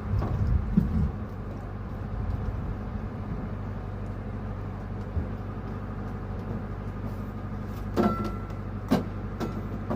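An engine running with a steady low drone, with a few sharp knocks near the end.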